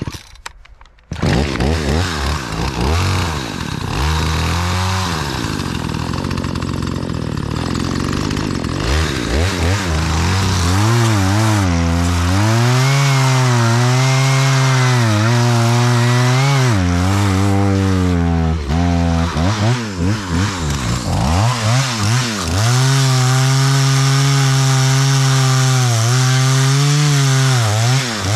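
Two-stroke gas chainsaw starting about a second in, then cutting into a juniper trunk, its engine speed rising and dipping again and again as the dull chain bogs in the cut.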